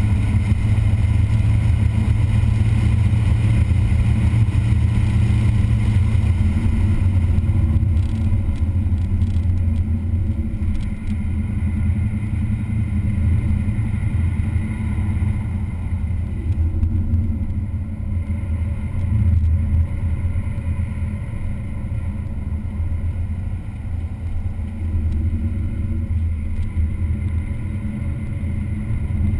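Engine of a vehicle lapping a race track, running hard for the first several seconds, then easing off a little and rising and falling for the rest.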